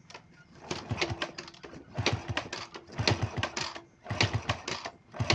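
Honda Supra 100's single-cylinder four-stroke engine being kick-started over and over, about once a second, turning over with a clicking mechanical rattle but never firing: it has lost its ignition spark.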